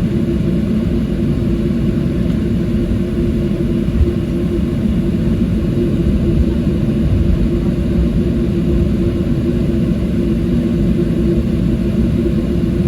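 Steady low rumble with a constant hum inside the cabin of a Boeing 737-700, its CFM56-7B engines running at low power.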